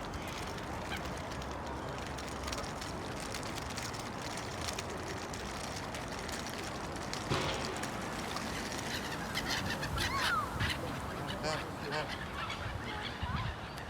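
Waterfowl calling over a steady background hiss, with short calls and brief pitch glides coming thicker in the second half.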